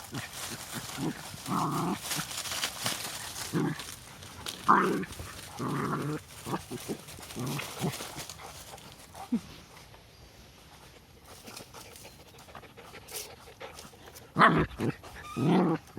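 Pet dogs giving short barks and yelps in scattered bursts, with a quieter stretch partway through before two louder ones near the end.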